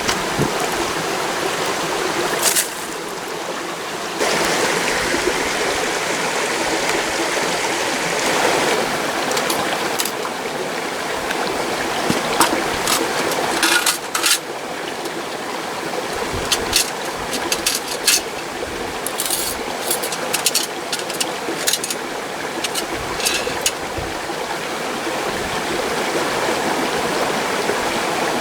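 Mountain stream rushing steadily, with scattered short sharp clicks and knocks over it.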